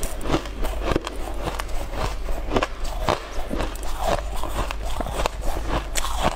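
Close-miked chewing of a crunchy, frozen ice cake: a steady run of crisp crunches, about three a second.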